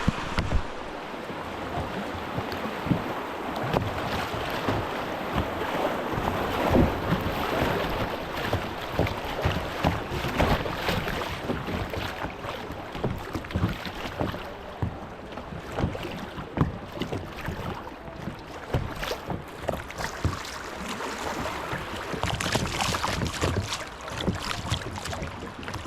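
Kayaks being paddled down a shallow creek: water splashing and sloshing with irregular paddle strokes and knocks, and wind on the microphone.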